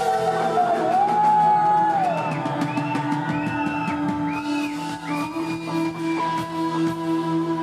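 Live band music in Thai Isan style: a lead melody with arching, sliding notes over steady held low drone notes and a steady beat.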